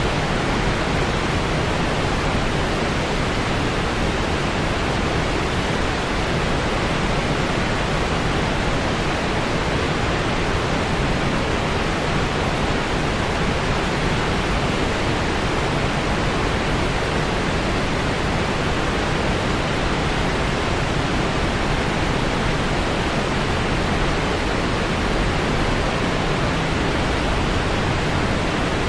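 Steady white noise: an even, continuous hiss that does not change.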